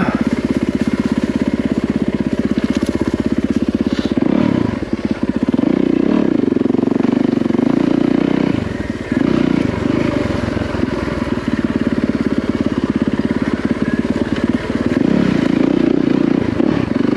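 Yamaha WR450F four-stroke single-cylinder dirt bike engine running under way on a trail. The throttle is eased off briefly about four seconds in and again near nine seconds.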